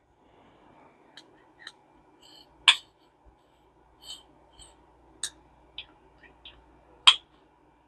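Scattered small clicks and light taps of metal hand tools and small reel parts being handled during fishing-reel reassembly, with two sharper clicks, one near the middle and one near the end.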